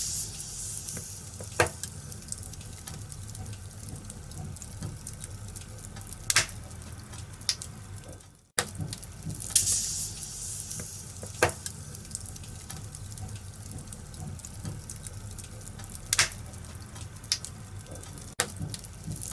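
Wood fire burning in a fireplace, crackling steadily over a low rumble, with sharp pops every few seconds. The sound drops out for a moment about halfway through, then carries on.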